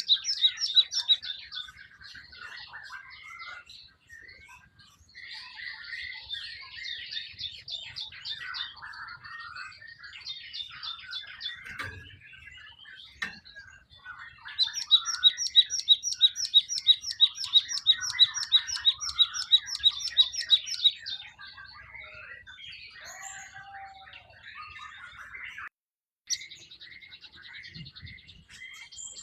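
A glatik songbird singing a varied run of chirps and twitters. Roughly halfway through comes a loud, even series of repeated high notes, about three a second, lasting several seconds.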